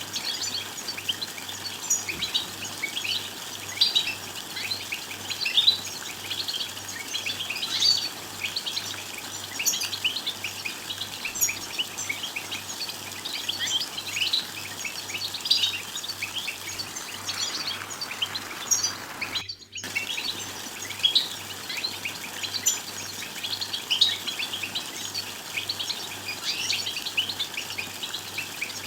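European goldfinch twittering: a dense, unbroken run of quick chirps and trills. The sound cuts out for a split second about two-thirds of the way through.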